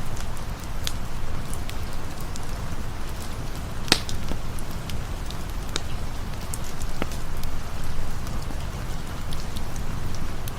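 Steady rain with a low, even rumble, mixed with a campfire's scattered sharp crackles and pops. The loudest pop comes about four seconds in.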